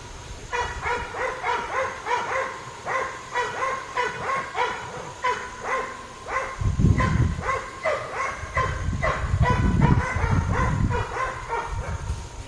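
A dog yapping over and over, about two to three short yaps a second, with wind gusting on the microphone about halfway through and again near the end.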